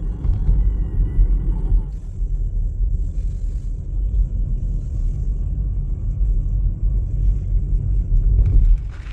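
Wind buffeting the microphone: a loud, uneven low rumble that gusts up and down, then drops away near the end.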